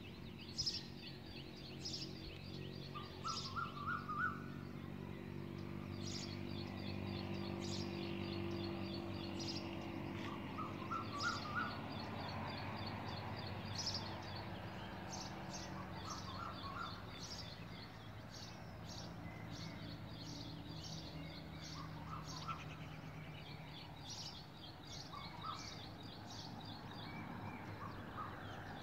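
Birds chirping and calling: high, quick chirps repeat all through, and a lower short run of four or five notes comes every few seconds. A steady low hum runs underneath.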